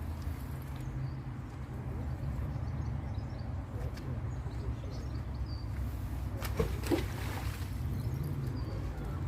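Outdoor ambience: a steady low rumble with faint bird chirps, and a brief clatter about six and a half seconds in.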